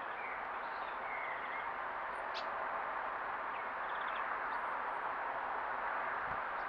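Small garden birds chirping faintly over a steady hiss, with a short quick trill about four seconds in and a single sharp click a little past two seconds.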